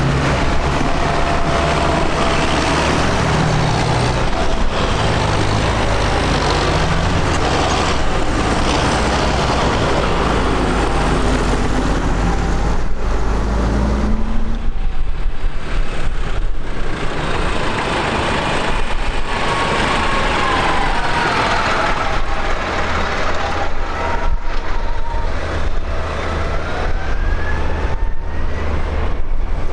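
Tractor engines running as tractors drive past. The engine note rises and falls in the second half.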